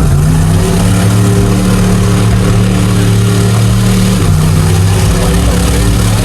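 A mega truck's big engine running hard at high revs, loud and steady, its pitch dropping a step just after the start and again about four seconds in.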